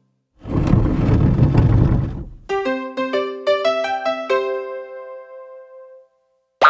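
A children's toy sound effect: a noisy rumbling burst about two seconds long, then a short electronic-keyboard jingle of about eight quick piano-like notes that ring out and fade.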